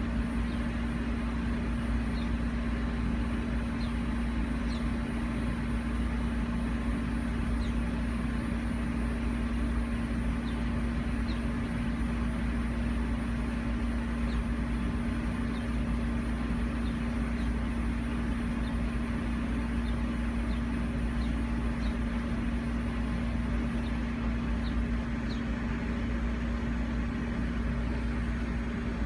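A steady mechanical hum over a low rumble, with faint short high bird chirps every second or two.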